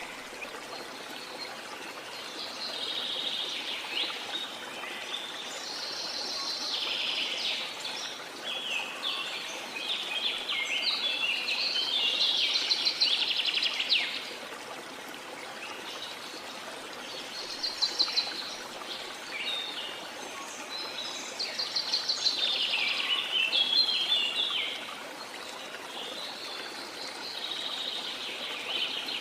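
Small songbirds singing in repeated, rapid trilling and chirping phrases over a steady wash of sea.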